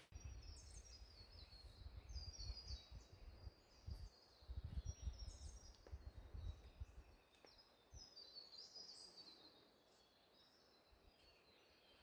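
Rainforest birds calling: many short high chirps and stepped whistled notes, overlapping and repeated throughout, with a low rumble underneath that fades after about seven seconds.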